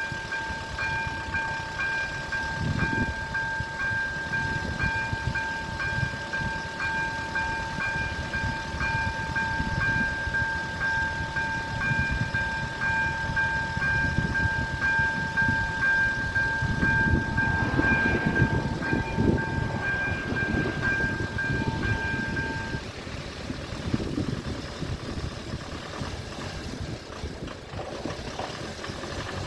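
Electronic level-crossing bells (AŽD ZV-02) ringing in a steady repeating tone, stopping about three-quarters of the way through. Beneath them a train rumbles over the crossing, loudest a little past the middle.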